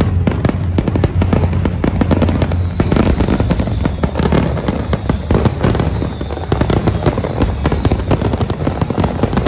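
Large fireworks display: a dense, continuous barrage of bangs and crackling over a deep low rumble.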